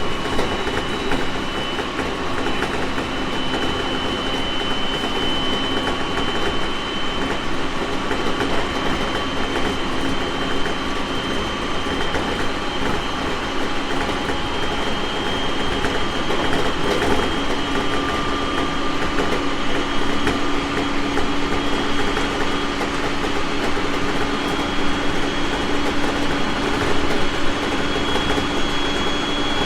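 Running sound of a 701 series 1000 subseries electric multiple unit: a steady rumble of wheels and running gear, with a faint motor whine that climbs slowly in pitch as the train gathers speed.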